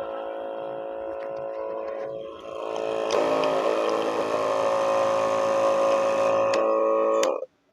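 Double-motor battery sprayer pump's two small electric motors running with a steady hum that grows louder about three seconds in and cuts off suddenly near the end. The sound is normal, with no abnormal noise left after the loose mounting screws were tightened.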